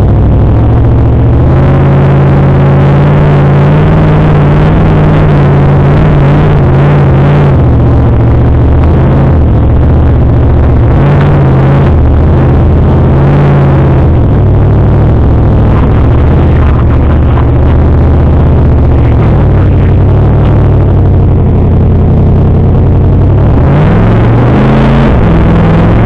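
Off-road vehicle's engine working hard under load as it climbs a sand dune, heard loud from inside the cabin. The revs rise and fall about 24 seconds in.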